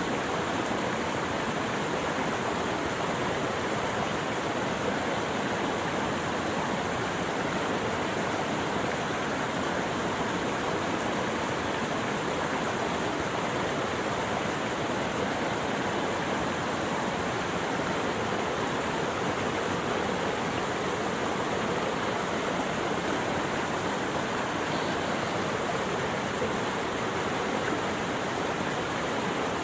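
Steady rushing of running water, an even unbroken wash with no distinct splashes or calls.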